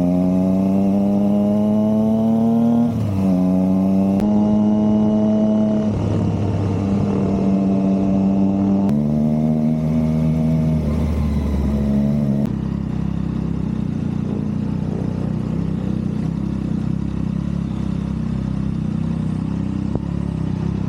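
Triumph Trident 660's inline three-cylinder engine pulling through the gears: the note rises for about three seconds and drops at a shift, holds steady, steps down again near nine seconds, and about twelve seconds in falls to a lower, even running sound.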